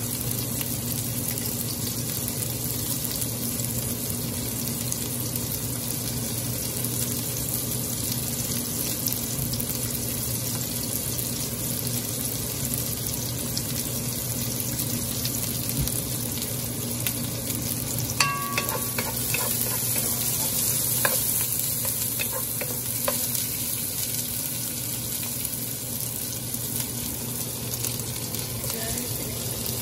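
Sliced onions and garlic sizzling steadily in hot oil in a pot. About two-thirds of the way through there are a few short ringing clinks and taps.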